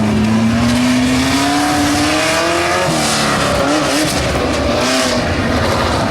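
Tough truck engine revving hard, its pitch climbing steadily for about three seconds, then dropping back and wavering up and down.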